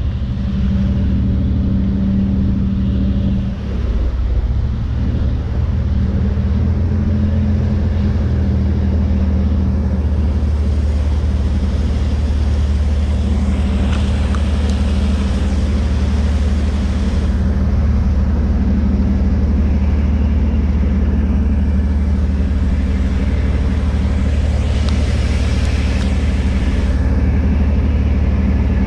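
A large ship's engine running with a steady, deep drone. A rushing hiss rises over it twice, in the middle and near the end.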